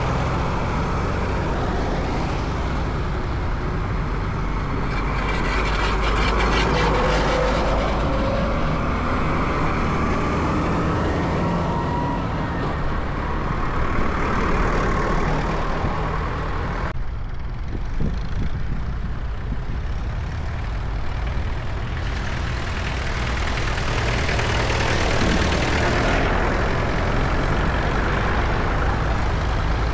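Tractor engines running with a steady low rumble. The higher-pitched noise drops away suddenly about two-thirds of the way through, then builds back.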